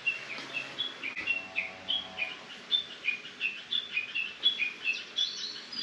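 Small bird chirping over and over, short high notes at shifting pitches, about three a second.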